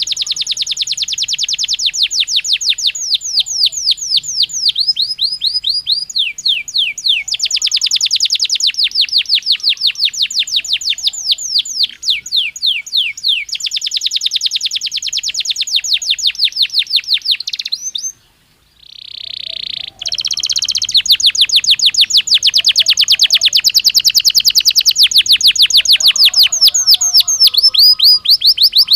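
Domestic canary (Belgian canary) singing: long rolling trills of rapidly repeated notes, changing phrase every few seconds. The song breaks off briefly past the middle, with one soft warbled note, then resumes in a fast, loud trill that runs on.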